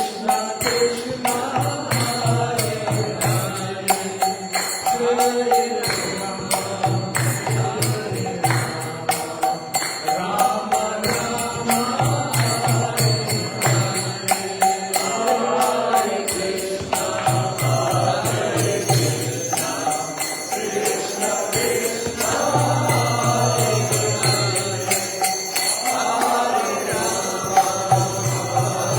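Devotional kirtan: voices chanting a mantra to music, with jingling metal percussion keeping a steady beat throughout.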